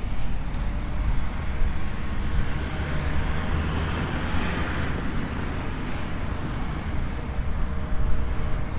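Tractor engines running steadily while working the grass, with a low wind rumble on the microphone; a hiss swells and fades about four seconds in.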